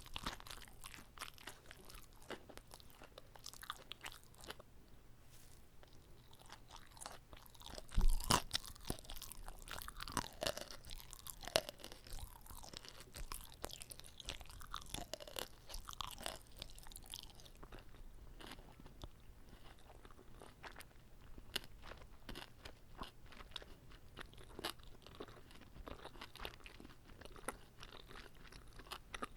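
Close-miked chewing of a whole uncut gimbap roll, with crunches and small wet mouth clicks. A loud bite or bump about eight seconds in is followed by several seconds of busier chewing.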